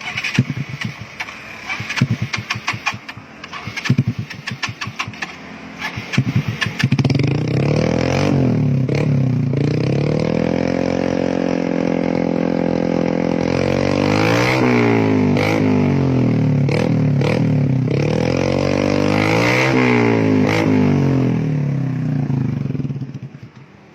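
Motorcycle engine through an aftermarket racing exhaust. It sputters and pops in uneven bursts for the first several seconds, then catches and runs steadily with a held raised rev. It is blipped up and down a few times and dies away near the end.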